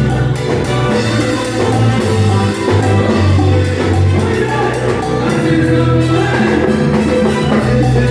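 A Latin dance band playing salsa-style music, with a steady bass line and percussion.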